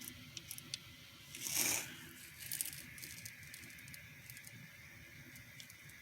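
Faint handling noise from the recording phone: scattered small clicks and a brief rustle about a second and a half in.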